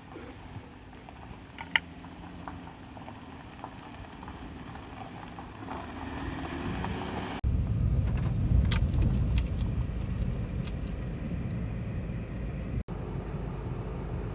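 Outdoor car and traffic background noise with scattered small metallic clicks and jingles, turning into a louder low rumble after a sudden cut about seven seconds in.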